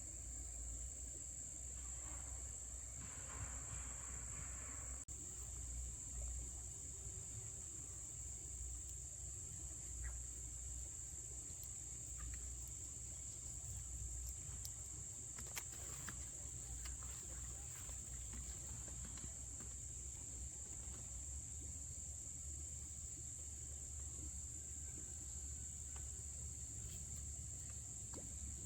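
Insects, likely crickets, chirring steadily in one continuous high-pitched tone. A short burst of noise comes a few seconds in, and faint clicks come midway.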